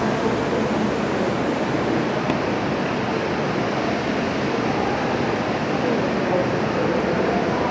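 Steady rushing background noise with no distinct events and an even level.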